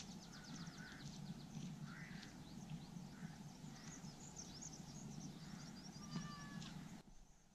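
Faint birdsong: birds calling in quick high chirps and trills, with a few lower calls, over a steady low rumble.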